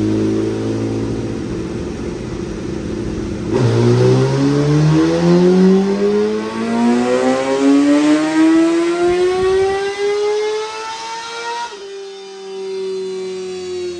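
Inline-four superbike engine on a dynamometer doing a full-throttle pull: after a few seconds running steadily, the engine note jumps and climbs smoothly for about eight seconds, then the throttle shuts and the revs fall away near the end.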